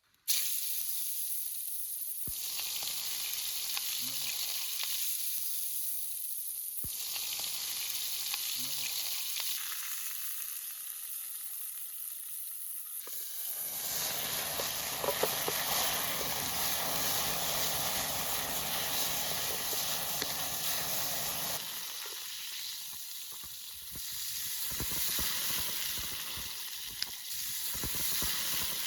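Food frying in hot fat, a steady sizzle that starts abruptly. It gets fuller and louder for several seconds midway, then thins into crackling pops near the end.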